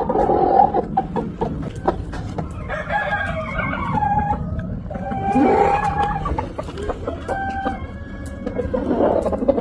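Bantam Wyandotte chickens calling: clucking, and a rooster crowing several times. The longest call is a held note a little past the middle.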